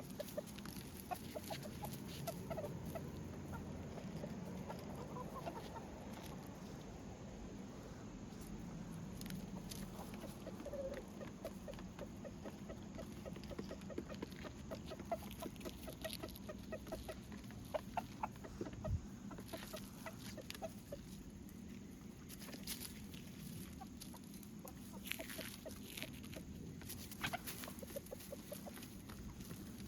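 Free-range chickens clucking softly in short, repeated calls, with scattered sharp clicks and taps.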